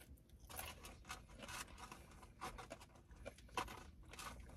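Faint, irregular chewing and mouth clicks from someone eating french fries, with small rustles.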